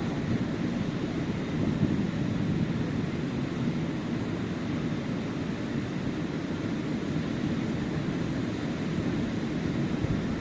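Ocean surf washing steadily onto a sandy beach, with a low rumble of wind on the microphone.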